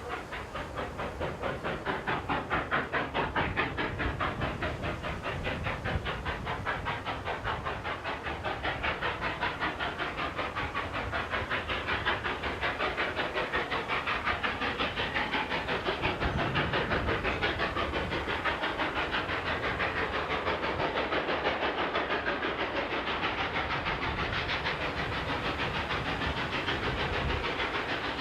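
A steam locomotive working hard, its exhaust beating fast and evenly with a steady hiss.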